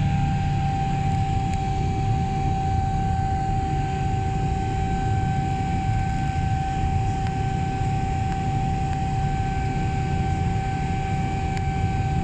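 Jet engines of a Boeing 777-300 on takeoff, a steady rumble with a high, steady whine over it.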